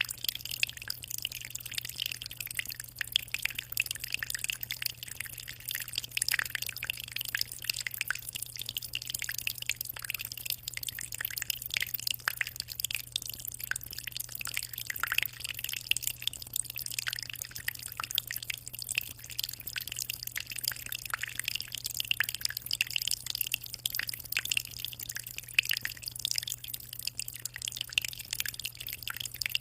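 Continuous trickling and dripping of water in a 60-litre aquarium, a dense patter of small splashes at the surface with no pauses, over a steady low hum.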